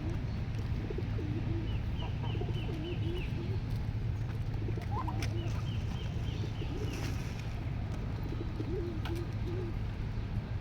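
Pigeons cooing, with low wavering coos repeating throughout. A quick run of high chirps comes twice, over a steady low hum.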